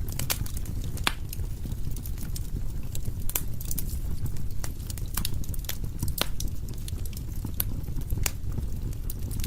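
Wood fire crackling in a fireplace: irregular sharp pops and snaps over a low, steady rumble of the burning.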